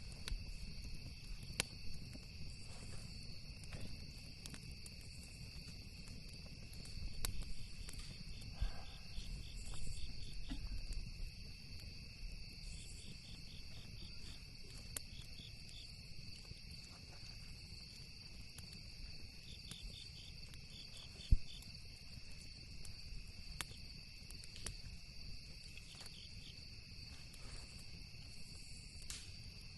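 Steady night chorus of crickets chirping, with pulsing trills coming and going. Scattered sharp crackles and pops of a campfire run through it, with one louder pop about two-thirds of the way through, over a low rumble.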